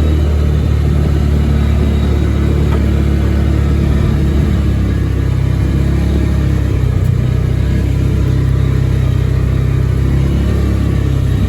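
A vehicle's engine running steadily as it drives along, a loud low drone with no change in pace.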